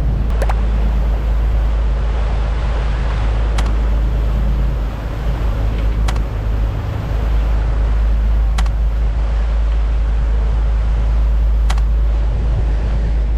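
Charter fishing boat's engine running steadily underway, a heavy low rumble, with a faint sharp click every two to three seconds.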